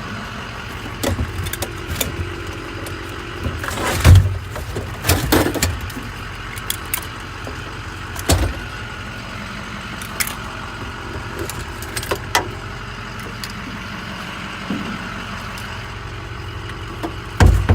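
Truck engine idling steadily, with a string of sharp metal clanks, knocks and rattles from tools and equipment being handled, the loudest about four seconds in, one near eight seconds, and a double knock near the end.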